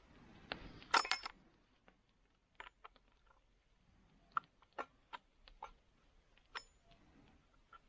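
Irregular light metallic clicks and clinks from hand work on a saw, with a quick cluster about a second in and single clicks spaced out after.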